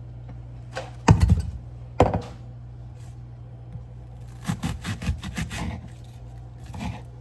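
Wooden spoon knocking and scraping in a pan of sautéing onions: two sharp knocks, then a run of quicker taps and scrapes, over a steady low hum.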